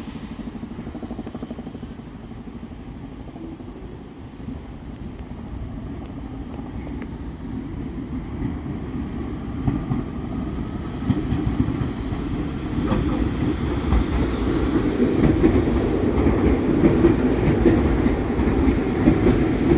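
New York City subway train running on the rails, growing steadily louder through the second half, with the clicking of wheels over rail joints.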